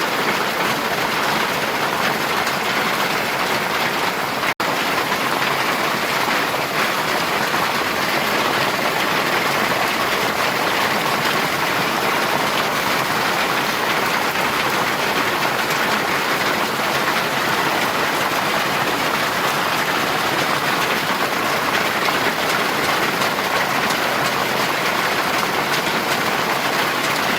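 Heavy rain falling steadily as a dense, even hiss; it cuts out for an instant about four and a half seconds in.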